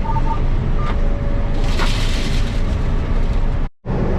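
Combine harvester running steadily while shelling corn: a low, steady rumble with a faint steady whine. About two seconds in a short hiss swells and fades, and near the end the sound cuts out for an instant and comes back as a different steady hum.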